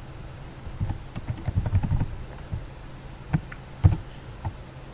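Typing on a computer keyboard: a quick run of keystrokes over the first two seconds, then a few separate key presses, the sharpest near the end.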